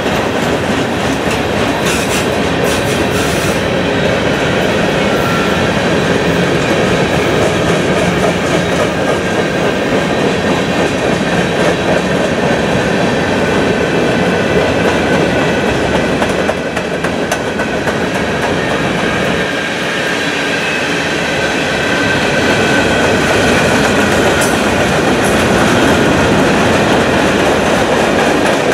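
Norfolk Southern manifest freight cars (boxcars and covered hoppers) rolling past close by: a steady rumble and clatter of steel wheels over the rails, with a faint high wheel squeal now and then.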